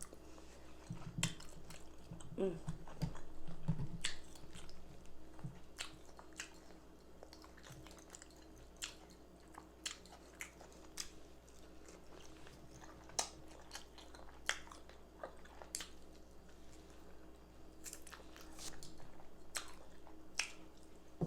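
Close-up eating sounds: chewing, biting and wet mouth smacks as baked chicken and rice with gravy are eaten, in scattered short clicks.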